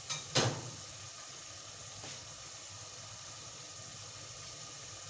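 Onion-tomato masala frying in oil in an aluminium pot, sizzling steadily as it reaches the well-fried (bhuna) stage. A single sharp clack sounds about half a second in.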